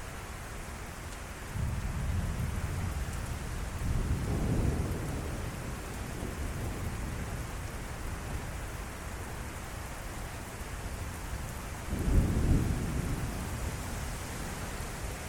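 Steady rain from a derecho thunderstorm with rolling thunder: a low rumble builds a second or two in and swells a few seconds later, then a sharper, louder rumble breaks in late.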